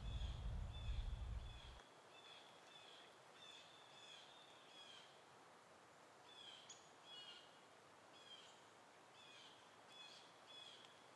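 Faint birds chirping: short repeated calls, two or three a second, keep on throughout. A low rumble carried over at the start cuts off about two seconds in.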